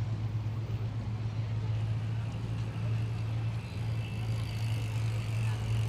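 A motor vehicle's engine running with a steady low hum, over continuous outdoor background noise.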